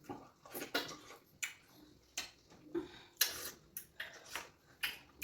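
Close-miked eating of fufu and okra soup: an irregular series of short wet mouth clicks and smacks from chewing, about two or three a second.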